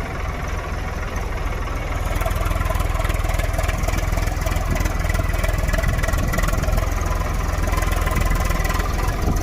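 A heavy vehicle's engine runs steadily with a low rumble, growing louder about two seconds in and then holding.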